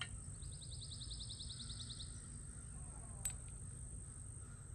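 A bird's rapid, even trill for under two seconds near the start, over a steady high insect drone and low outdoor background noise. A little after three seconds in, a single sharp click of metal suspension parts being handled.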